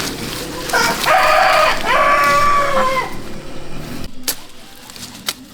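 A rooster crowing once, a call of about two and a half seconds whose long final note is held and drops off at the end. A few sharp knocks follow near the end.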